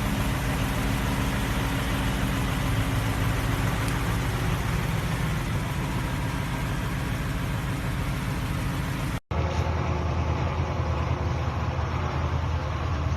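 Truck engine running steadily. About nine seconds in, the sound breaks off abruptly and gives way to a deeper, steadier engine drone.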